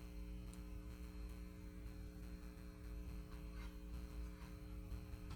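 Steady electrical mains hum with a few faint, brief ticks.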